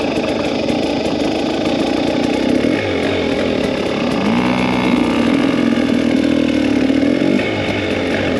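Two-stroke dirt bike engine running while riding off, revving up about four seconds in, holding the higher revs for a few seconds, then easing back off.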